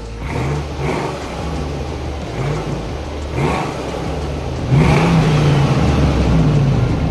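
Dodge Ram 1500's 5.7 L Hemi V8 through its stock exhaust and muffler, revved in several short blips and then one longer, louder rev held for about two seconds.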